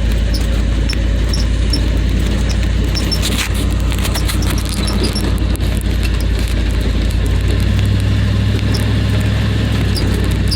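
Vehicle engine running with a low, steady drone while driving slowly on a rough dirt road, with scattered rattles and knocks. The engine note gets louder about eight seconds in.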